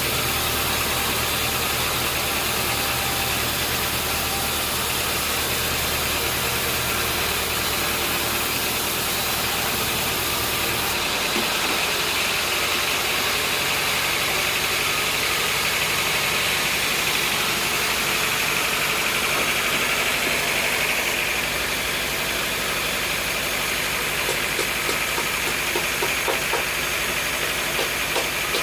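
Sawmill machinery running steadily, with a shift in its sound about eleven seconds in and faint rapid ticking near the end.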